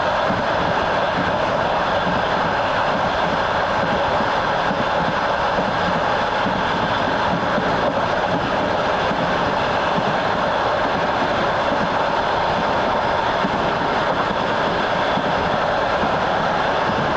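Train running along the rails, heard from on board: a steady rolling rumble of wheels on track that stays even throughout.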